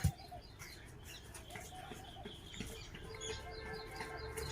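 Faint birds chirping in short, high calls, with a single thump right at the start.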